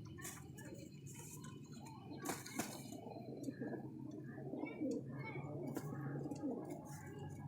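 Lakha pigeons cooing in a loft: soft, low, repeated coos, with a few sharp clicks.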